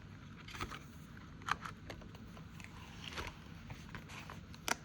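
Paper envelopes and a ring binder being handled: a few light, separate taps and rustles, with a sharper click near the end.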